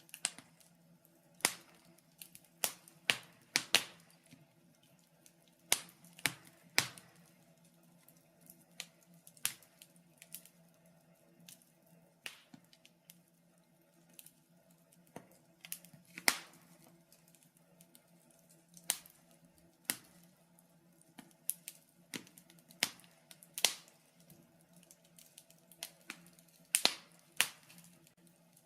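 Wood fire crackling in a fireplace: irregular sharp pops and snaps, roughly one or two a second, over a faint steady low hum.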